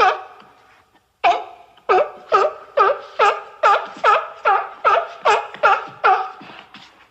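Sea lion barking in a quick series of short, honking barks, about two and a half a second, after a brief pause about a second in.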